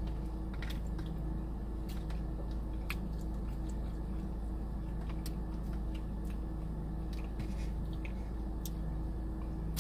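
Faint close-up eating sounds: scattered wet mouth clicks and chewing, a few seconds apart, over a steady low electrical hum.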